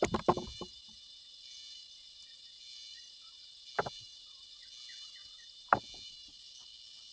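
Steady high-pitched chirring of insects, with a few short, sharp knocks: a cluster at the very start, then single knocks about four and six seconds in.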